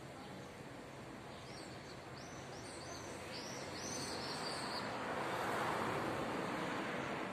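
A small bird chirping a quick run of short, high notes over steady outdoor background noise, followed by a broad rushing noise that swells and then eases in the second half.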